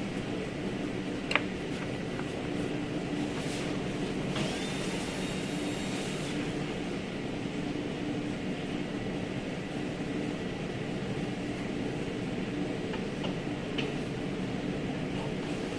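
A steady machine hum with a constant low drone, broken by a sharp click about a second in and a few lighter taps later on.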